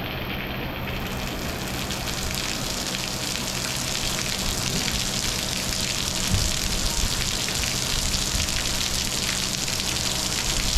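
Heavy tropical rain pouring down, a dense steady hiss that fills out and grows a little louder about a second in.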